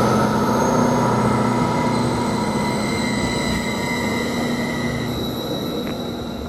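Greater Anglia Class 755 bi-mode multiple unit pulling out of the station, its drive running with several steady whining tones over a rumble that slowly fades as it moves off.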